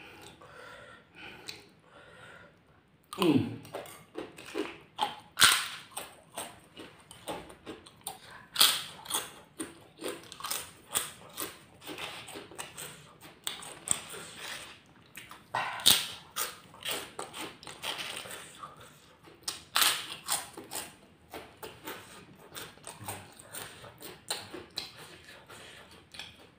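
Close-miked chewing and crunching of crispy kerupuk crackers dipped in sambal: a steady run of crackling chews with louder, sharper crunches every few seconds.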